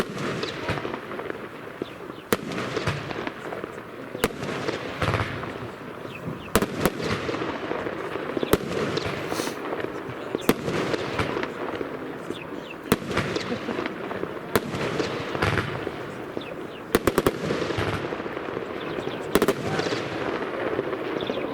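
Lesli Strobe Pistil Box compound firework cake firing: a continuous dense crackle that starts suddenly, with many sharp cracks and bangs scattered through it.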